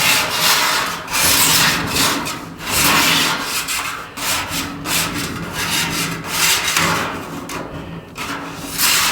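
Repeated rough back-and-forth rubbing strokes from hand work, uneven, about one or two a second, over a low steady hum.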